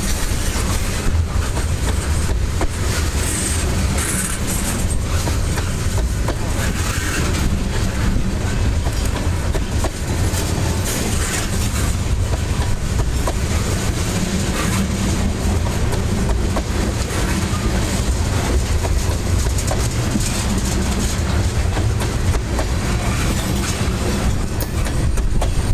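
Freight train of tank cars rolling past close by: a steady rumble of steel wheels on the rails with a continual clickety-clack of wheels clicking and knocking.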